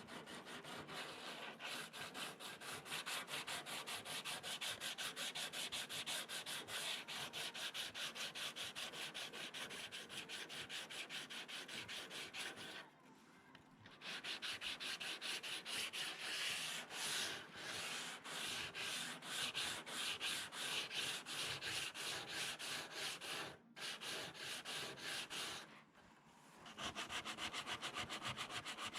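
Sandpaper being rubbed by hand in quick back-and-forth strokes over a fiberglass (FRP) repair on a car bumper, giving a steady rhythmic scratching. It stops for short moments about halfway through and twice near the end.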